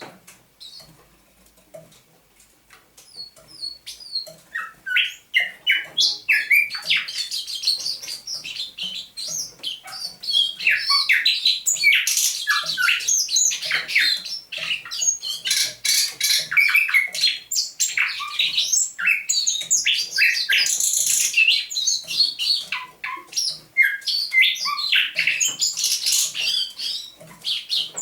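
Thrush nightingale singing. It starts softly with a few scattered notes, then from about six seconds in breaks into loud, fast song: rapid clicking and rattling phrases mixed with whistles and trills, with a brief break late on.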